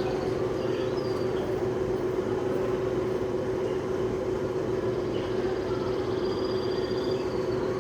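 A steady, even hum dominates, and over it come a few faint, short, high chirps from small caged pet-store birds.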